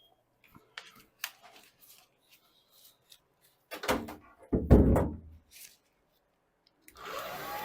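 Handling noise: scattered light clicks and knocks, then a cluster of heavy thumps and bumps about four to five seconds in. A steady hiss starts just before the end.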